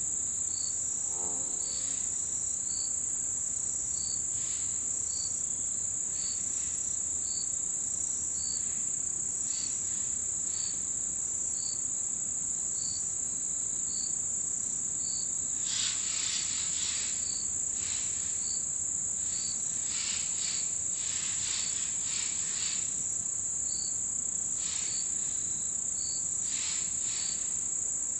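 Chorus of autumn insects: a continuous high-pitched trill, over which a second insect chirps regularly a little faster than once a second. Louder scattered buzzing chirps come in about halfway through.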